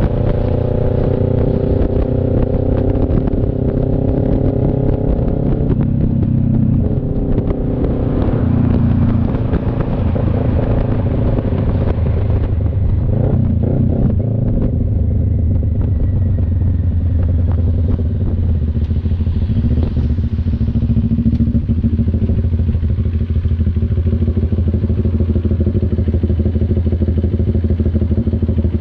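CFMoto NK400's two-cylinder engine running under way, its pitch shifting over the first several seconds and then settling into a steady low drone.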